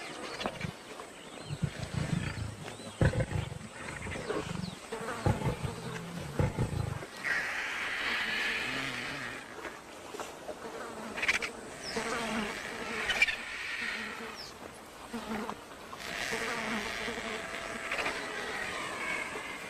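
Lions growling and snarling while feeding on a hippopotamus carcass, with low rumbling growls through the first several seconds. In the second half a high insect buzz comes and goes in several stretches.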